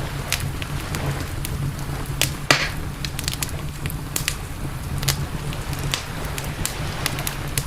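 Wood campfire crackling, with irregular sharp pops and snaps over a steady low rumble; one louder pop comes about two and a half seconds in.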